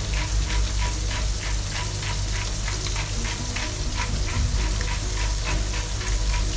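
Chicken livers frying in butter in a hot pan, a steady sizzle with many small crackling pops.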